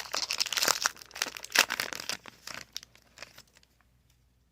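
Foil Pokémon booster pack wrapper crinkling and tearing as it is opened, a dense crackle that dies away about three seconds in.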